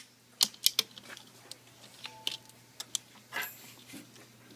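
Scattered sharp clicks and light taps of laptop screen parts being handled and pressed into place in the lid.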